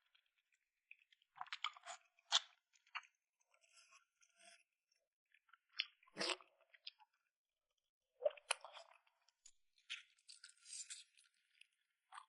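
A person eating close to the microphone: intermittent bursts of wet chewing with a few sharper crunches and clicks, separated by short pauses.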